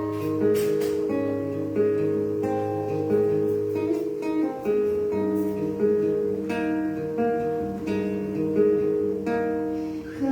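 Acoustic guitar playing an instrumental passage solo, its chords changing about once a second.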